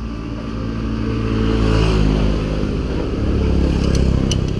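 Motorcycle engine running, growing louder over the first two seconds and staying strong, with a few short clicks near the end.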